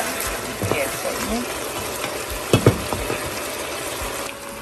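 Beef chunks sizzling as they fry in a stainless steel pot, stirred with a wooden spoon that scrapes and knocks against the pot, with two sharp knocks about two and a half seconds in. The sizzle gets quieter near the end.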